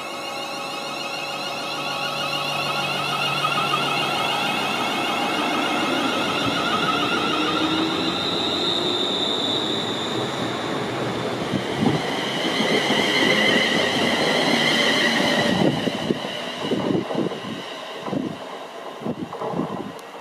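A train passing through at speed: a steady rushing with several high whining tones that build over the first few seconds and shift in pitch about twelve seconds in. The whine drops away suddenly near sixteen seconds, leaving an uneven rumble and knocking as the train clears.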